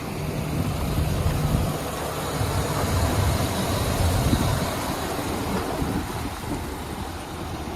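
2011 Chevrolet Silverado 2500HD's Vortec gas V8 engine running at idle, a steady low engine sound that swells slightly between about one and four seconds in.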